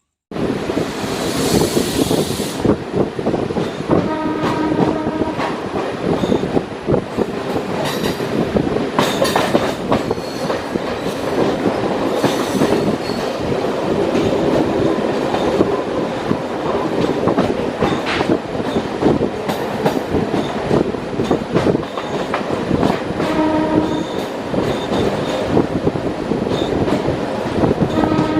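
Freight train hauled by a WAG9 electric locomotive passing close by: the loud, steady rumble and clatter of wagons rolling over the rails, with a horn sounding about four seconds in and again near the end.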